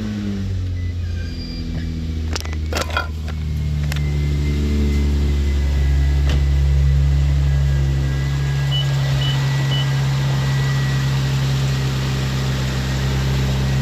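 Car engine idling steadily just after being started, running on freshly installed high-performance coils and spark plugs. A few clicks come about two to three seconds in.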